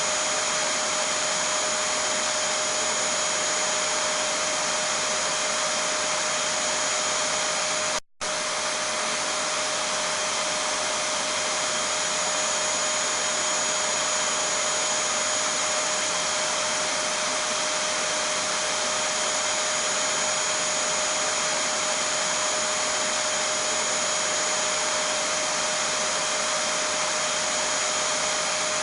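Vacuum cleaner running steadily: an even rushing noise with a constant whine on top. It cuts out for a split second about eight seconds in.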